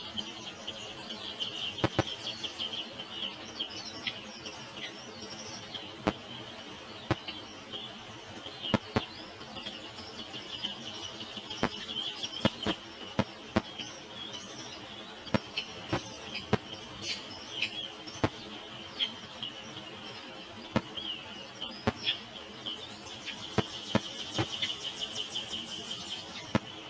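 Small birds chirping in high, rapid calls, typical of nestlings begging while being fed at the nest, with sharp clicks and taps scattered throughout. A denser run of rapid calls comes near the end.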